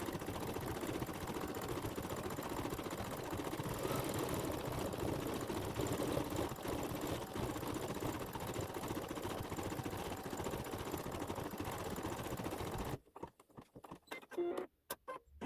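Embroidery machine stitching out a design with a fast, steady needle chatter that stops abruptly about thirteen seconds in. A few faint clicks follow.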